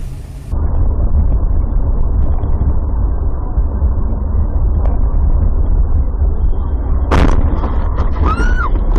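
Dashcam recording inside a moving car: a steady low road and engine rumble. About seven seconds in comes a single loud, sharp bang of a collision, followed near the end by a short wavering tone.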